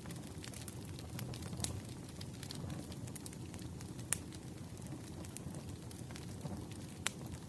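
Campfire burning: a steady low rumble of flame with scattered sharp crackles and pops, a few louder pops about one and a half, four and seven seconds in.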